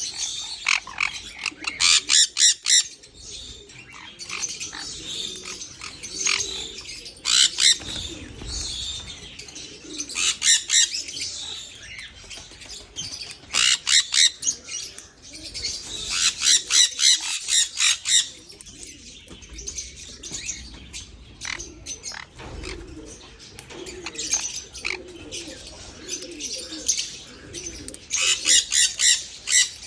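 Aviary birds chirping in bursts of fast, high chirps every few seconds, with low dove-like cooing underneath.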